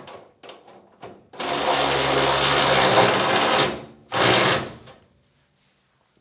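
Metalworking power tool running in two bursts: one about two seconds long, then a shorter one, each starting and stopping abruptly, after a few light clicks.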